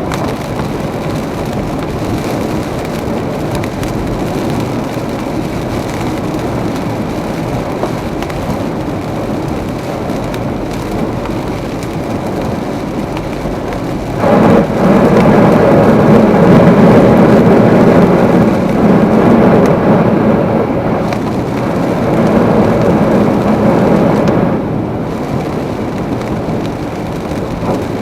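Heavy rain and tyre noise from a car driving through a downpour. About halfway through, a much louder, deeper rush sets in suddenly, lasts about ten seconds, then drops back.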